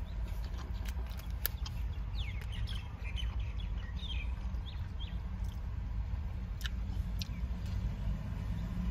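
Faint bird chirps, a cluster of short quick notes a couple of seconds in, over a low steady rumble, with a few soft clicks.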